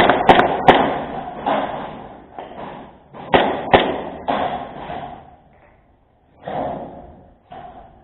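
Airsoft guns firing single sharp shots: three in quick succession at the start, two more a little after three seconds in, then scattered fainter ones with a short lull near the end.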